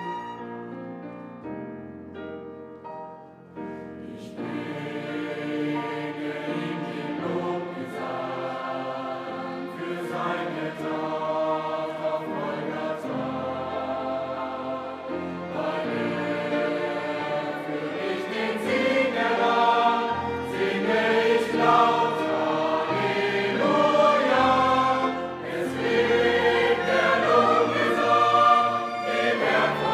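Music: choral singing over a sustained accompaniment, starting quietly and building to a fuller, louder sound about four seconds in.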